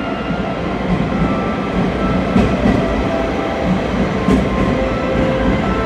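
521 series electric multiple unit running into the platform and past close by, with a steady rumble of wheels on rail and a few clacks.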